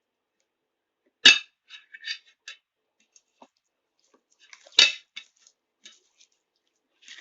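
Kitchenware clanking: two sharp knocks about three and a half seconds apart, each followed by a few lighter clicks and taps.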